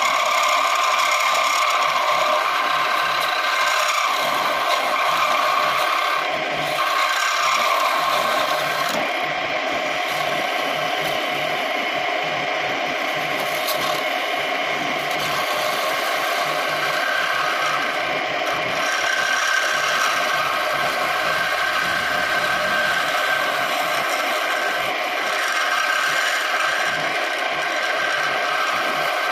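Home-built wood lathe running with a steady motor whine while a tool scrapes and cuts the spinning piece of wood.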